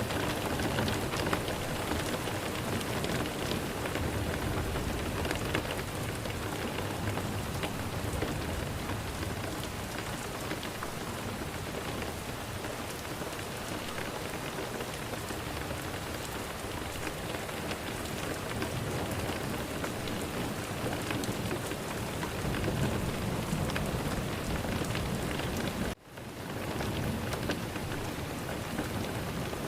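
Steady heavy rain falling and pattering on surfaces, with low rumbles of thunder swelling in now and then. Near the end the sound cuts out for a moment and fades back in.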